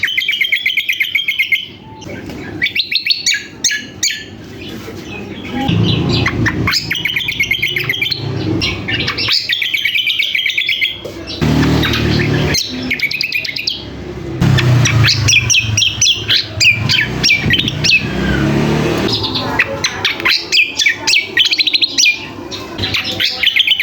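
A small cage songbird singing a fast, chattering song in the style of a sikatan londo flycatcher: rapid trills and quickly repeated notes, in phrases of a second or two with brief pauses between them.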